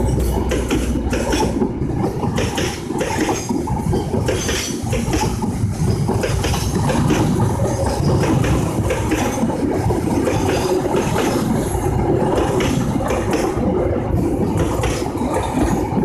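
Train passing close by: a steady rumble with the wheels clattering in quick, irregular clicks over the rail joints.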